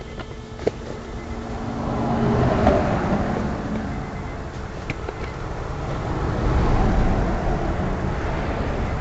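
Road traffic passing the stopped car: vehicle noise swells about two seconds in and again near the middle as vehicles go by.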